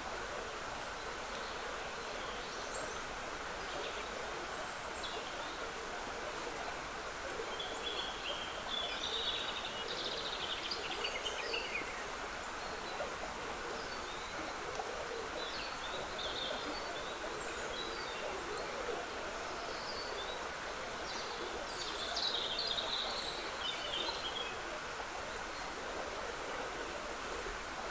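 Trickling water running steadily, with woodland songbirds singing over it in scattered chirps and a few longer song phrases, the fullest about a third of the way in and again near the end.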